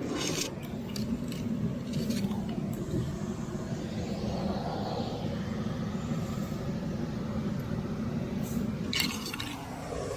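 Steady roar of a big waterfall, with climbing gear clinking now and then, most clearly near the end.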